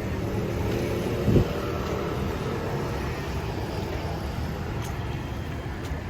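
Road traffic: vehicle engines running and passing, a steady low rumble, with one short low thump about a second in.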